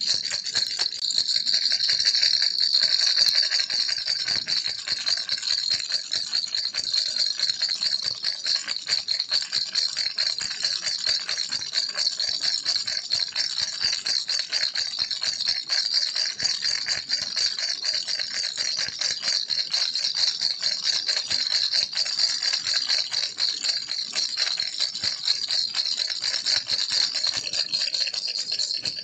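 Baby rattle shaken steadily without pause, a fast, high-pitched rattling of many tiny clicks.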